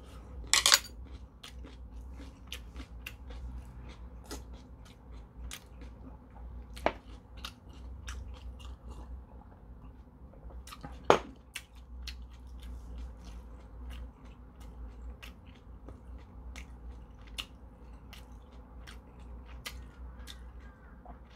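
Close-up chewing and mouth sounds of a person eating steamed dumplings, with small wet clicks throughout. A few sharper knocks stand out, the loudest about eleven seconds in.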